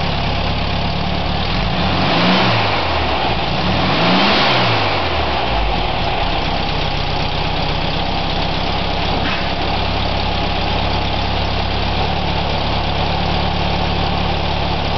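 Freshly rebuilt air-cooled VW Beetle flat-four engine idling. It is revved twice, about two and four seconds in, each time rising and dropping back, then settles to a steady idle.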